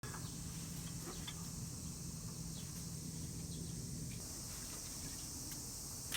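Steady high-pitched insect chirring, with a low steady hum underneath and a few faint clicks.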